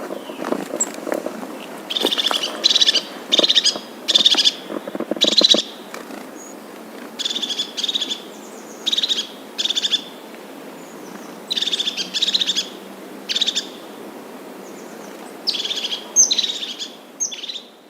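A bird calling over and over in short bursts of rapid, chattering notes, often two or three bursts close together with pauses between.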